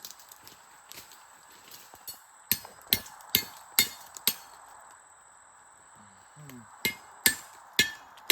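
Chopping blows into a palm trunk, cutting it open to get at suri (palm weevil grubs): five sharp blows in quick succession about two and a half seconds in, then a pause and three more near the end.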